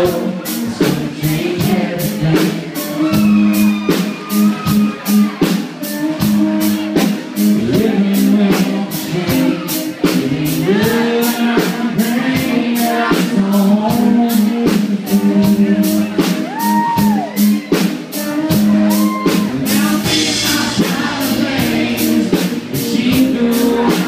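Live band music: a singer's voice over a steady drum beat with guitar and other instruments.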